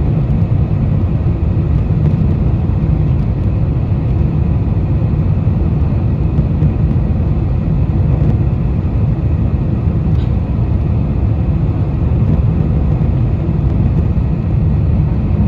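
Steady cabin roar of a four-engine Boeing 747-430 on final approach: engine and airflow noise heard from inside the cabin, heaviest in the low range, with a few faint steady tones above it.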